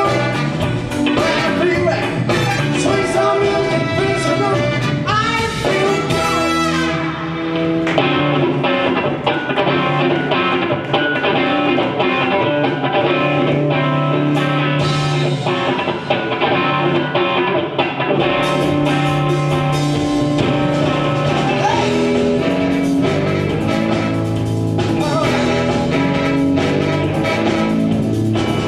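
Live band playing a rock-and-soul number with guitar and horns over a steady drum beat. The high cymbal sounds drop out about eight seconds in and come back about ten seconds later.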